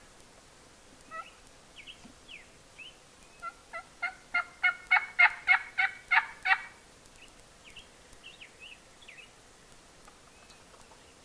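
Turkey yelping: a run of about a dozen evenly spaced yelps, roughly four a second, growing louder through the middle of the run. Short faint bird chirps come before and after it.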